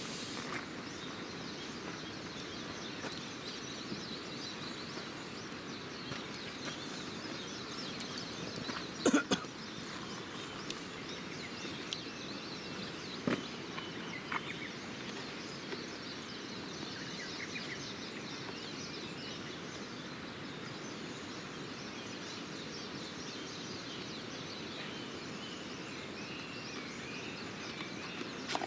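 Wood campfire burning with a few sharp pops and cracks, the loudest about a third of the way in, over a steady outdoor hiss, with birds chirping faintly in the later part.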